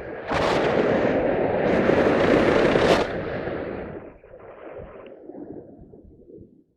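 Loud wind rushing and buffeting over the microphone for about three seconds, then dying down in uneven gusts.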